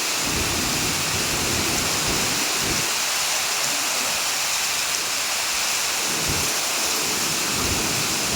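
Heavy rain falling as a dense, steady hiss, with low rumbles now and then.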